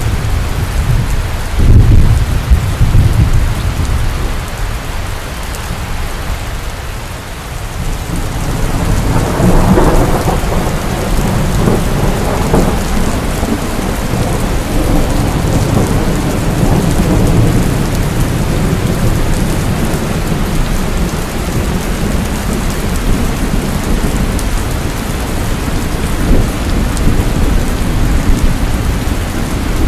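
Heavy rain falling steadily with thunder. A sharp crack about two seconds in rumbles away, then a long rolling peal builds from about eight seconds in and fades back into the rain.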